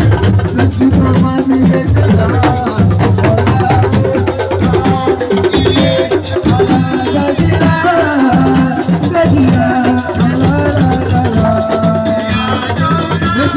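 Assiko band music: drums and shakers keep a steady, dense beat under a low bass line, with a melody line over it.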